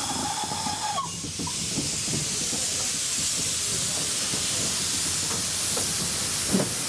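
Steam locomotive letting off a loud, steady hiss of escaping steam. A flat tone sounds over the hiss and stops about a second in.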